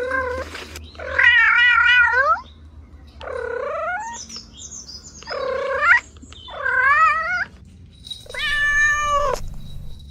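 A cat meowing repeatedly: about six drawn-out meows, each up to a second and a half long, several sliding down in pitch at the end.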